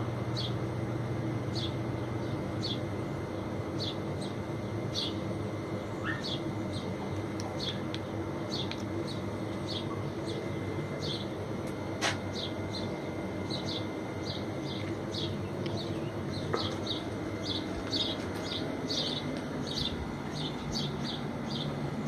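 A small bird chirping over and over, short high notes about one or two a second, over a steady low background hum. A single sharp click about twelve seconds in.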